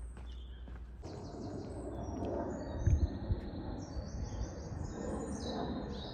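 Songbirds chirping and twittering in short high phrases, over a steady rumble of background noise that grows louder about a second in.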